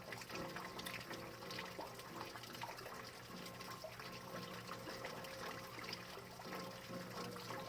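Rain falling: a steady wash of water with many small drop hits, and faint held tones underneath.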